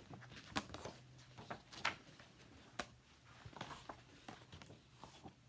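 Faint handling noise in a small room: a scatter of short soft clicks and brief rustles, irregularly spaced, over a low steady hum.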